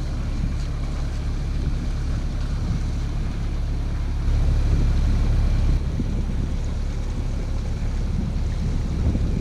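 Wind buffeting the microphone over a steady low rumble aboard a sailboat under way, a little louder for about a second and a half near the middle.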